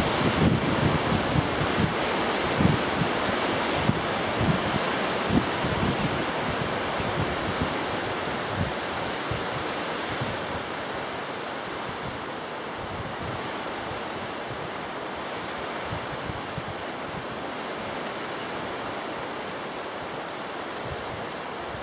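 Strong gusty wind buffeting the microphone: a steady rushing noise with low thumps that ease off over the first ten seconds or so.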